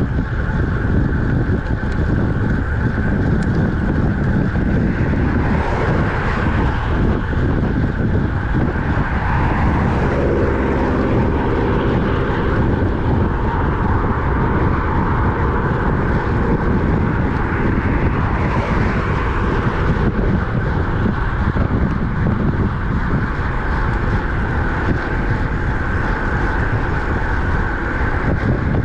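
Steady wind rush on the microphone and road noise from a road bike riding at speed. About ten seconds in, a pitched engine hum from a passing motor vehicle rises over it for a few seconds.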